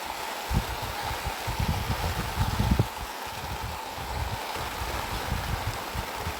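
Rain falling steadily, with an uneven low rumbling underneath.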